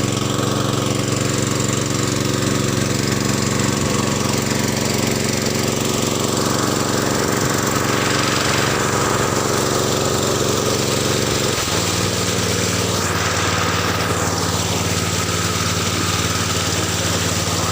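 Generator-set engine running steadily while driving a homemade 6-inch axial-flow pump. Its running speed drops a step about twelve seconds in, and again a second later.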